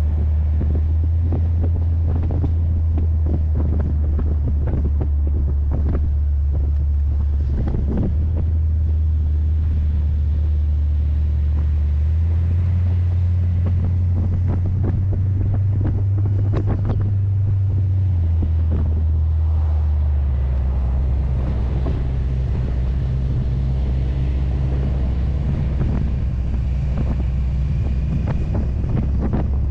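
Heavy wind buffeting on the microphone over the steady low drone of a C3 Corvette's 350 small-block V8 cruising. The engine's low note steps up about twelve seconds in and settles back down around twenty seconds.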